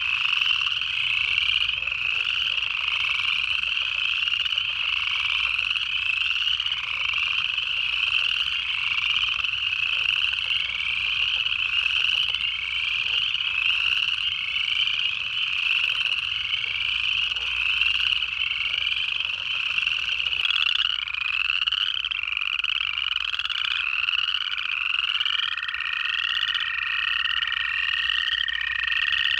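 Chorus of upland chorus frogs, many overlapping rising trills repeating. About 25 seconds in, an American toad's long steady trill joins at a lower pitch.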